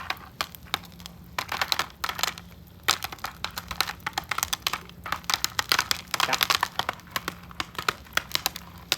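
Popcorn kernels popping in a pan over a wood fire: rapid, irregular sharp pops, coming thickest about two seconds in and again from about five to seven seconds in.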